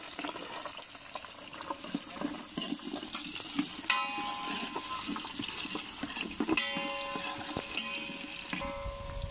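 Shallots, tomatoes and garlic frying in hot oil in a steel pot, a steady sizzle, with a metal ladle scraping and knocking against the pot as they are stirred.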